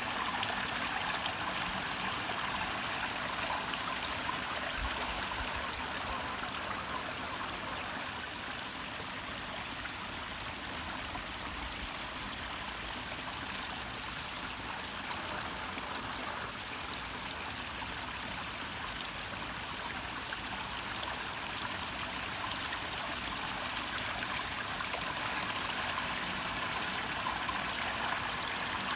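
Small garden waterfall splashing steadily, an even rushing hiss of falling water.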